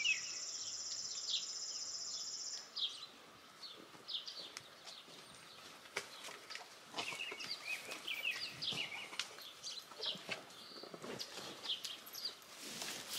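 Songbirds chirping and calling in quick, short notes, with a steady high-pitched buzzing trill that stops about two and a half seconds in. Soft scattered knocks and rustles follow, growing busier near the end.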